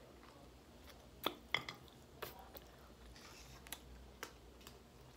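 A person chewing a mouthful of food close to the microphone, with a few wet mouth clicks and lip smacks; the two sharpest come about a second and a half in.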